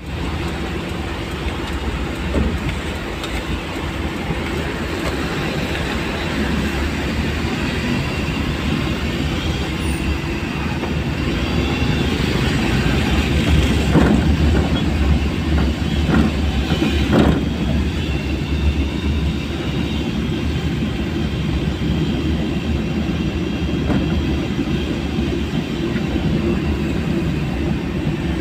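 Steady rumble of a vehicle travelling along a rain-soaked, flooded road, with tyre and water noise, swelling somewhat about halfway through.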